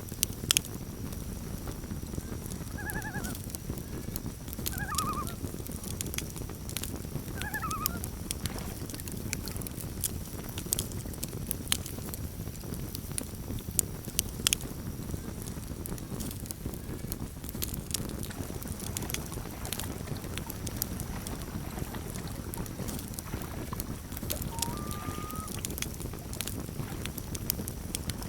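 Campfire burning with scattered crackles and sharp pops over a steady low rumble. A water bird gives a few short calls within the first eight seconds and one brief rising call near the end.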